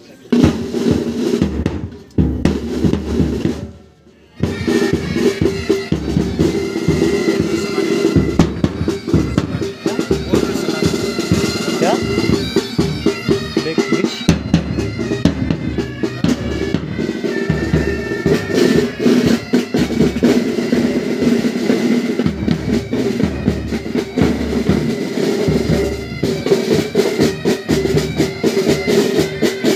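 Military pipe band playing: bagpipes with their steady drone over rattling snare side drums and bass drum. The band breaks off briefly about four seconds in, then pipes and drums play on without pause.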